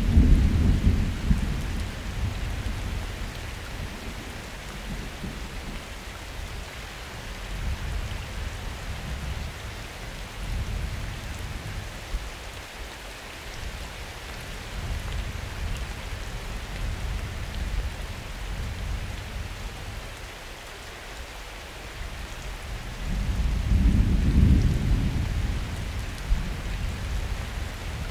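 Steady rain falling in a summer thunderstorm, with rolling thunder. A rumble fades out in the first couple of seconds, several weaker rumbles come and go through the middle, and a louder one swells and dies away a little over three-quarters of the way through.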